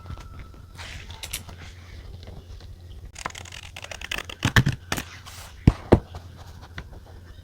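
Desk stationery being handled: rustling and scraping of paper, with a few sharp taps in the middle, over a low steady hum.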